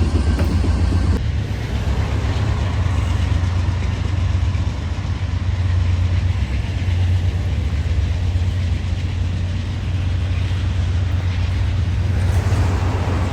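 A vehicle running with a steady, loud low rumble and a continuous noisy wash over it; there is a change in the sound about a second in.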